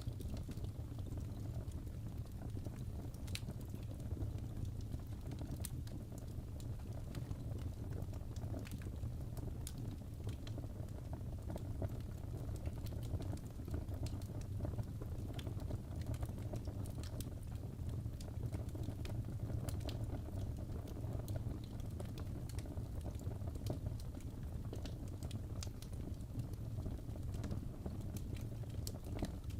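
Crackling fireplace: a steady low rumble of burning with frequent, irregular sharp pops and crackles.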